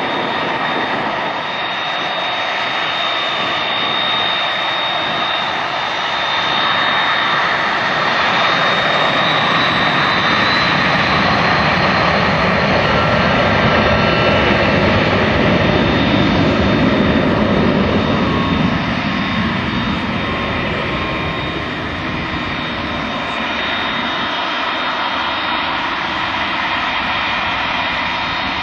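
Cessna CitationJet CJ2's twin turbofan engines running with a high whine. The sound grows louder to a peak, then drops off fairly suddenly about two thirds of the way through as the jet passes.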